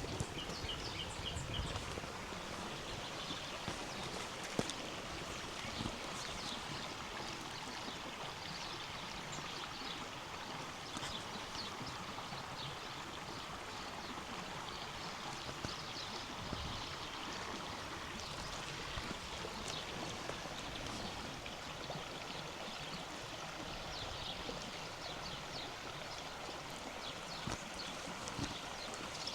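River water rushing steadily over rocks, with small birds chirping throughout.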